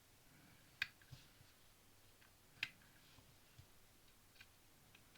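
Plastic Lego pieces clicking and tapping as they are handled and pressed together: two sharp clicks, about one and two and a half seconds in, with a few fainter taps between.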